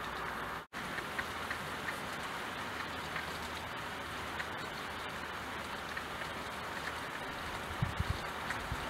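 Steady rain hissing on a window pane, with scattered ticks of single drops striking the glass. The sound cuts out for an instant about a second in, and low thumps begin near the end.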